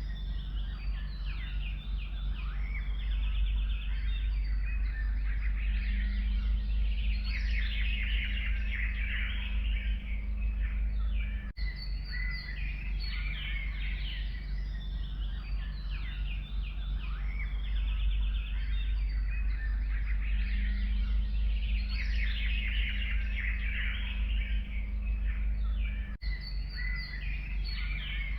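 Many forest birds chirping and singing over one another, with a steady low rumble beneath. The sound drops out briefly twice, about a third and nine-tenths of the way through.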